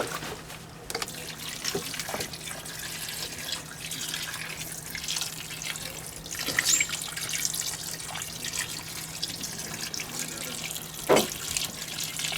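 Water splashing and trickling into a cooking pot, with scattered clinks.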